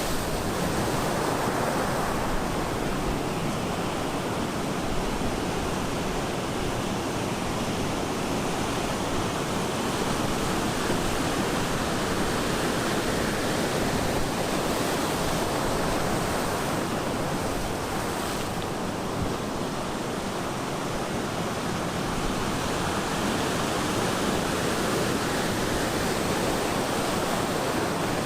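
Ocean surf breaking and washing onto the shore: a continuous rushing roar that swells and eases gently.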